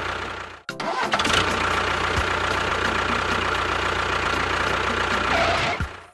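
An engine running steadily. It cuts out briefly just under a second in, starts up again and runs on, then dies away near the end.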